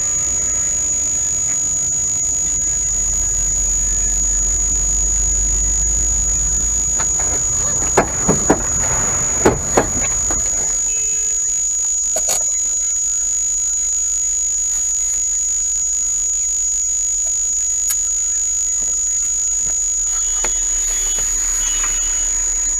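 Dash-camera recording of a car on the road: steady road and engine rumble under a constant high-pitched whine, with a burst of several loud bangs about eight to ten seconds in, typical of a collision, after which the rumble falls away.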